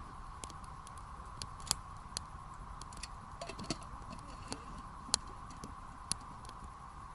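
Burning firewood crackling and popping in a campfire, with irregular sharp snaps, the loudest about two seconds in and again around five and six seconds in, over a steady background hiss.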